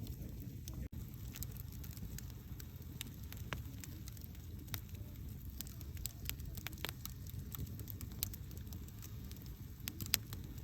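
Campfire burning: a low steady rumble of the flames with frequent sharp crackles and pops, one louder pop near the end. The sound drops out for an instant about a second in.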